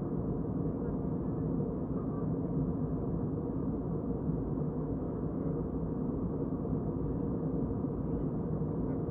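Steady cabin noise of an airliner in flight: a low, even roar of engines and airflow with a faint hum underneath.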